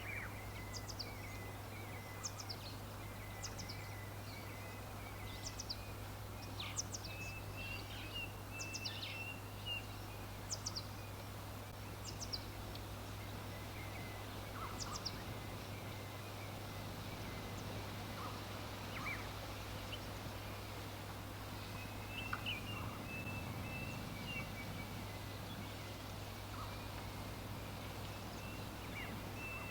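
Several songbirds chirping over a steady background hiss and low hum. Short, high, quickly falling chirps come about once a second through the first half, mixed with lower warbling calls.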